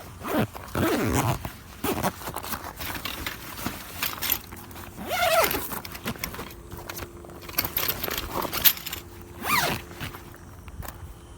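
A zipper on a canvas tent is pulled several times in quick strokes, with fabric rustling and small clicks and knocks from handling between the pulls.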